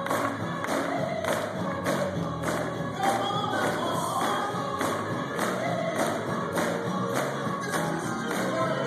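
Gospel choir singing with band accompaniment over a steady, even percussion beat.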